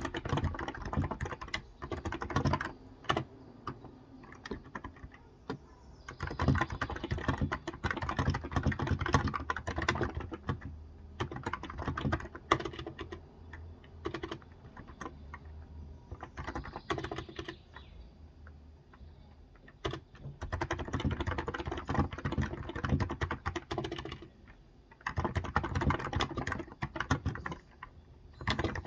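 Typing on a COX Endeavor electro-capacitive tenkeyless keyboard with 35 g switches: fast runs of key presses broken by pauses of a few seconds.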